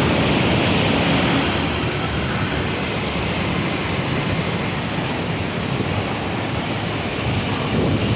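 River water rushing out through a barrage, a steady, loud, even rushing noise.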